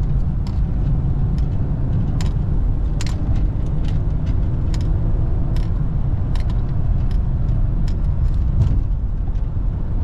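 Car driving along: a steady low rumble of road and wind noise, with scattered light clicks.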